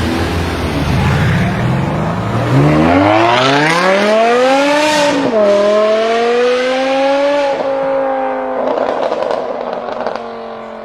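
A BMW performance car accelerating hard: the engine note climbs steeply, drops sharply at a gear change about five seconds in, climbs again and shifts once more. The pitch then sinks slowly as the sound fades near the end.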